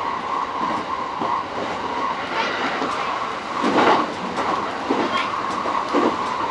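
JR East E231 series commuter train running between stations, heard from inside the leading car: steady running noise with a few clunks of the wheels over rail joints, the loudest about four seconds in.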